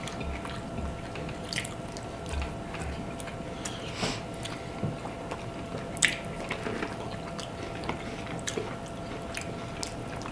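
Eating sounds from buttered garlic shrimp and lobster: wet, squishy chewing and handling of the saucy seafood, with scattered sharp clicks, over a faint steady hum.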